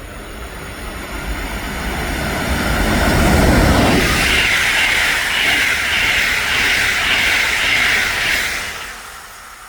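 Train passing by on the rails. A low rumble builds over the first few seconds, then a louder, pulsing wheel-on-rail noise follows, fading away about nine seconds in.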